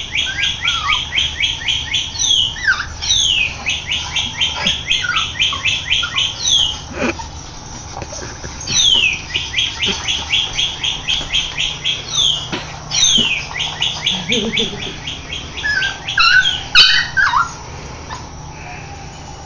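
Northern cardinal song played by a plush red bird toy: a sharp down-slurred whistle followed by a fast run of short notes, about six a second. The phrase repeats several times, with a pause in the middle.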